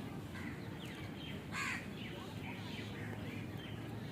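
A crow caws once, loudly and briefly, about one and a half seconds in, among faint scattered calls of other birds over a steady low background hum.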